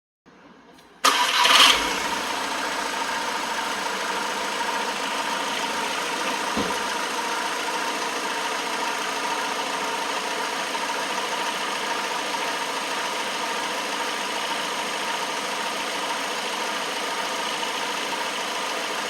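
Volkswagen Jetta 2.0 TDI four-cylinder turbodiesel engine starting about a second in, with a brief flare of revs, then settling to a steady idle.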